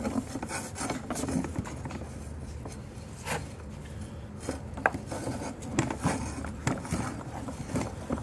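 Sewer inspection camera's push cable being fed into a drain line: irregular scraping strokes with a few sharp clicks.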